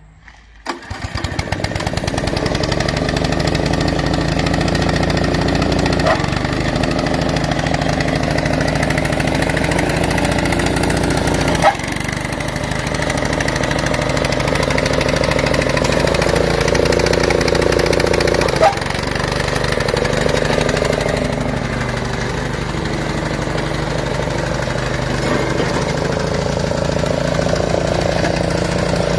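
Small old Honda petrol engine on a multi-purpose utility machine catching about a second in, then running steadily. Three short sharp clicks sound while it runs.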